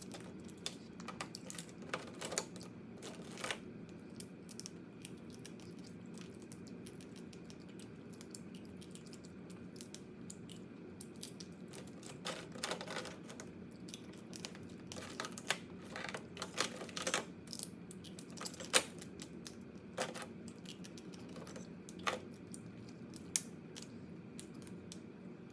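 Crab shells being cracked and crunched while eating: irregular sharp clicks and snaps in small clusters, the loudest single snap about three quarters of the way through, over a steady low hum.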